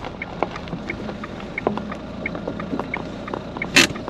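Car turn-signal indicator ticking steadily, about two to three clicks a second, inside the car's cabin as the car slows to pull over. A brief sharp noise stands out near the end.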